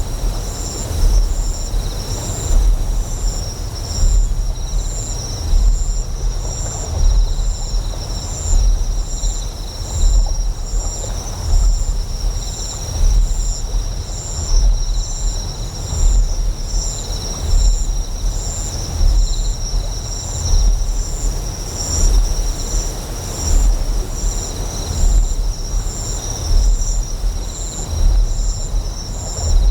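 Sound-designed ambience of a deep generator hum that swells in a slow pulse about every second and a half, with steady high-pitched insect chirping over it, one strand pulsing a few times a second, and a faint wash of flowing water.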